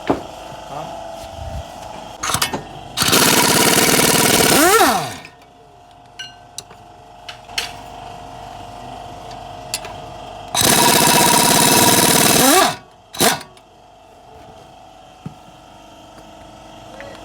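A power tool run in two bursts of about two seconds each, each trailing off with a short change in pitch as it lets go, with metal clinks and knocks between the bursts.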